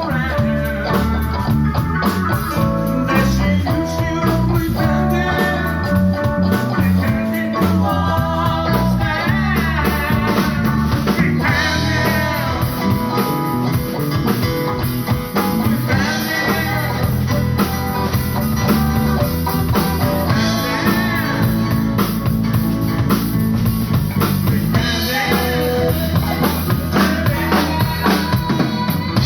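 A live blues band playing, with a drum kit and electric guitar over a steady beat.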